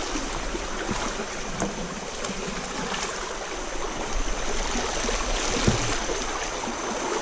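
Steady rush of moving river water, with a few faint knocks.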